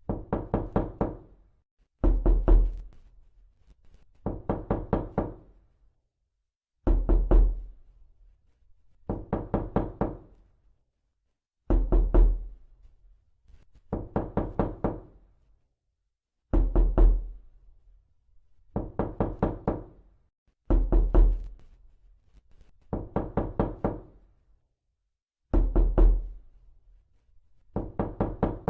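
Knocking in a steady repeating pattern: clusters of about four to six quick raps, one cluster every two seconds or so, with short gaps between.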